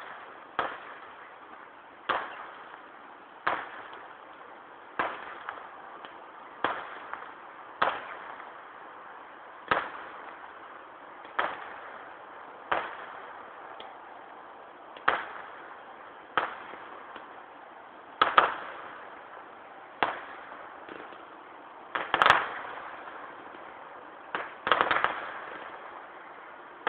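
Distant fireworks display, one to two miles off: firework bursts going off one after another, about one every one and a half to two seconds, each bang trailing away in a rolling echo, with a few bangs bunched closer together near the end. Heard through a mobile phone's microphone, which keeps only the middle of the sound.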